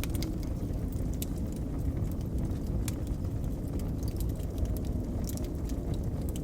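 Wood fire crackling, with scattered sharp pops and snaps, over a steady low rumble of blizzard wind.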